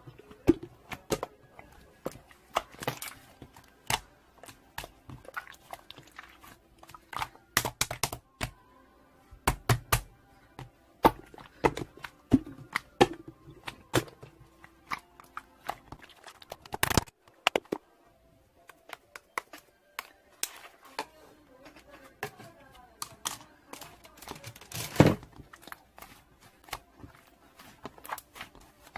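Slime being squeezed and pressed by hand, making irregular clicking and popping sounds, several a second, with a short pause about two-thirds of the way through.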